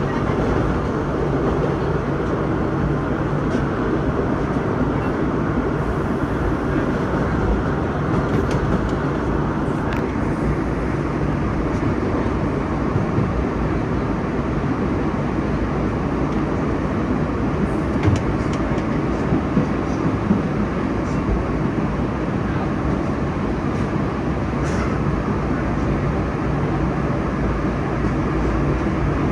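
Vintage New York City subway nostalgia train running along the track, heard from the rear cab: a steady rumble of wheels on rail with a few sharp clicks.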